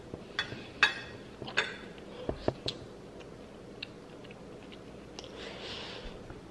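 Mouth sounds of someone chewing a bite of food that is too hot: several wet smacking clicks in the first three seconds, then a breathy blow of air out through pursed lips near the end to cool the mouth.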